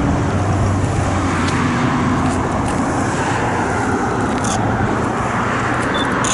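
Road traffic: the steady tyre and engine noise of passing cars, swelling as one goes by mid-way.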